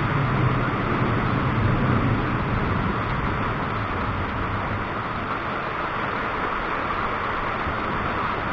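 Low rumble of distant thunder that swells and fades over the first few seconds, over a steady hiss of storm noise.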